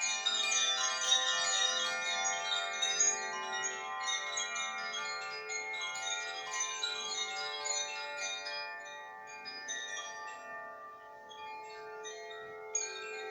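Koshi chimes ringing: a clapper striking tuned metal rods over a bamboo resonator, building a wash of many overlapping, long-ringing tones. The strikes thin out and the ringing fades after about ten seconds, then a fresh strike sounds near the end.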